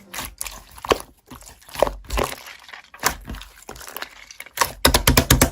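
Slime being handled, giving irregular crackling clicks and small pops that come thicker near the end.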